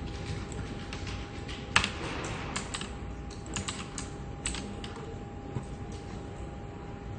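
Computer keyboard typing: irregular key clicks, with one sharper, louder key strike about two seconds in, over a steady office hum with a faint constant tone.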